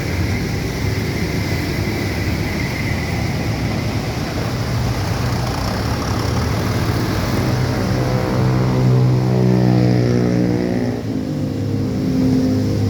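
A large bus's diesel engine pulling away, its pitch rising steadily as it gathers speed, then dropping suddenly near the end with a gear change before running on.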